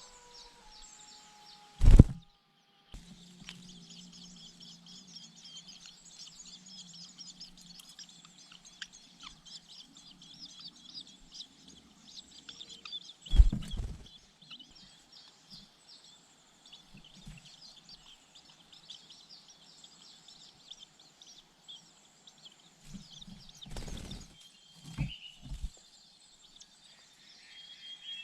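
Dense, continuous high-pitched bird chirping, broken by two loud knocks, about 2 seconds in and about 13 seconds in, and a few smaller knocks near the end.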